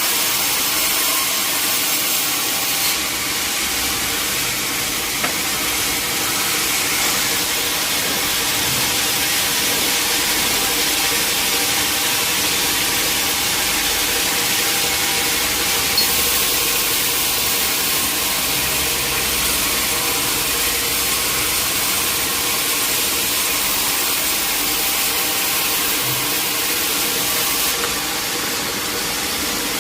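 Sawmill saw running and cutting through teak wood: a steady high hiss over the steady hum of the machinery, the hiss stronger from about three seconds in until shortly before the end.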